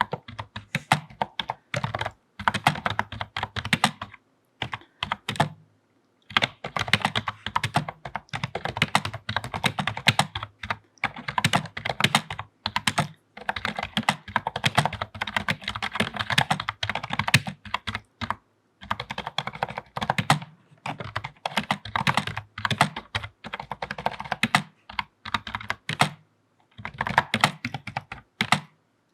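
Fast typing on a computer keyboard: rapid, dense key clicks in runs, broken by short pauses about five seconds in, around two thirds of the way through, and again near the end.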